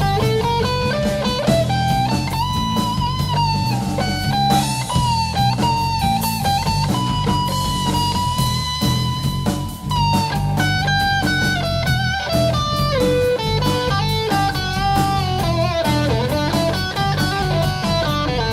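Live rock band playing, an electric guitar solo bending and holding notes over bass and drums, with one long sustained note through the middle.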